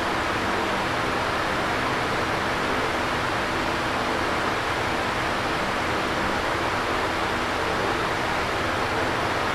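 Electric fan running steadily: an even airy whoosh with a faint motor hum beneath it.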